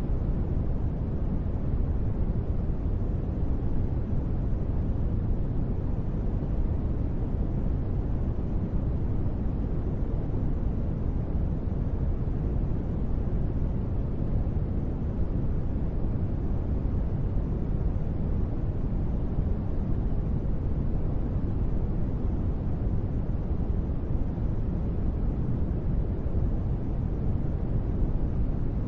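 Steady, deep rushing noise of a sleep-sound track, heavy in the low end, with no separate drops, thunder or music. It is sold as gentle rain white noise.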